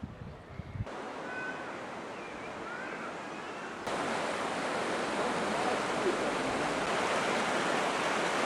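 Steady rushing water. It starts abruptly about a second in and gets suddenly louder just before four seconds.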